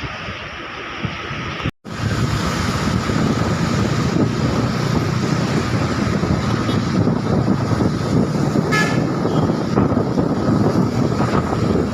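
Steady road traffic rumble, with wind buffeting the microphone. The sound cuts out for a moment about two seconds in, then returns louder. A brief high-pitched beep comes about nine seconds in.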